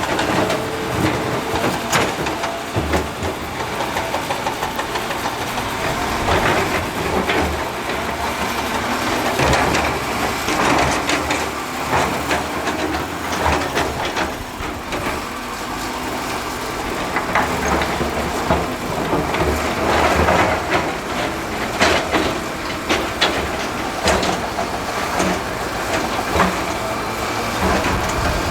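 Heavy earthmoving machinery at work: a diesel engine running under continuous rough noise, with frequent irregular clanks and knocks of metal and rock.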